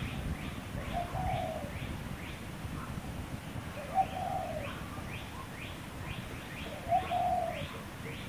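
Birds calling: a low, cooing call repeats about every three seconds, each opening with a sharp note, over a fast series of high rising chirps at about two a second.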